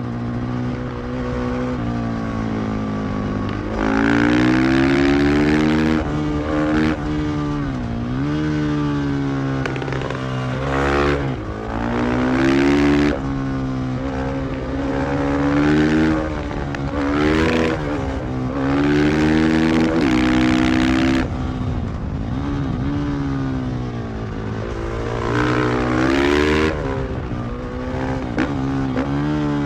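KTM 500 EXC-F supermoto's single-cylinder four-stroke engine on the move, its note rising and falling again and again with the throttle, with several harder, louder pulls.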